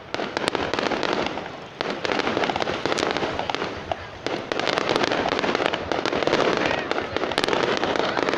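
Fireworks going off in a dense crackle of rapid pops, building again in fresh volleys about two seconds apart.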